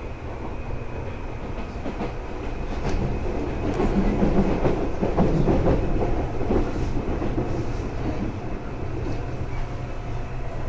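Seibu 2000 series electric train running, heard from inside the car: a steady low hum of the running gear. From about three and a half seconds to about seven seconds, the wheels clatter louder over rail joints.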